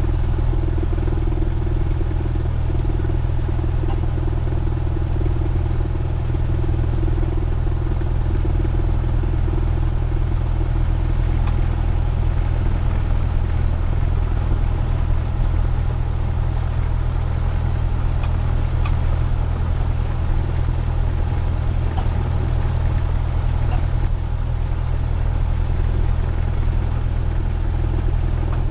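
Cessna 172R's four-cylinder Lycoming engine running at low taxi power, a steady drone with an even hum and no change in pitch.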